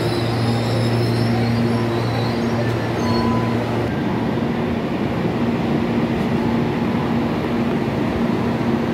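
CPTM electric train running past with a steady electric hum and faint high wheel squeal; about four seconds in the hum stops and a steady rush of train noise carries on under the station roof.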